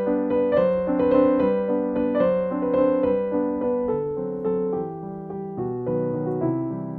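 Background music: a gentle piano melody of struck notes that ring and fade, played at a moderate pace.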